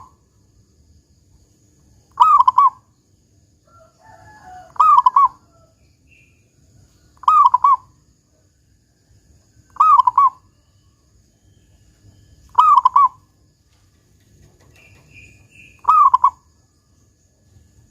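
Zebra dove (perkutut) cooing, with six short phrases spaced about two and a half seconds apart, each a quick trill ending in a deep 'kung' note. Faint chirps from another small bird come in between, twice.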